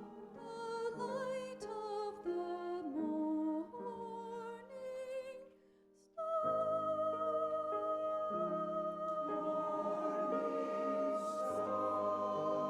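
Sung Christmas music with instrumental accompaniment, the voices moving from note to note. About six seconds in it breaks off for a moment, then resumes on one long held note over sustained chords.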